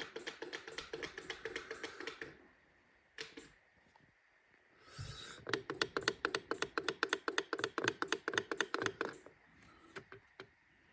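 Rapid, evenly spaced mechanical clicking, several clicks a second, in two runs of a few seconds with a pause between.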